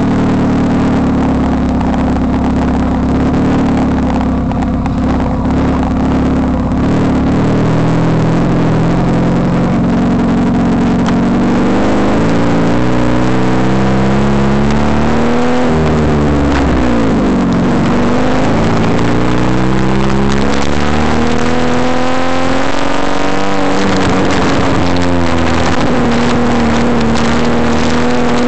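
Exhaust of a Daewoo Lanos with a 52 mm stainless steel pipe, engine running. The pitch holds steady at first, then from about twelve seconds in it rises and falls with engine speed, dipping sharply a little past the middle before climbing again.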